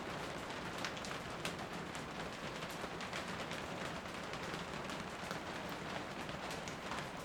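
Steady rain falling, with an even hiss and scattered drops tapping.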